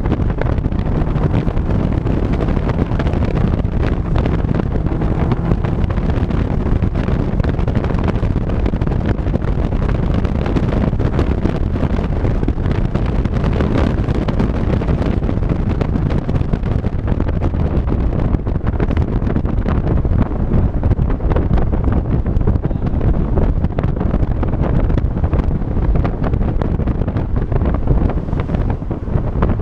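Wind buffeting the microphone of a moving vehicle, over a steady low drone of engine and road noise.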